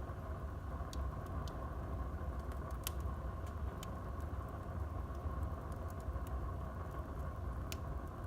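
Wood fire burning in a fireplace: a steady low rumble of flames with scattered crackles and sharp pops, the loudest about three seconds in and near the end.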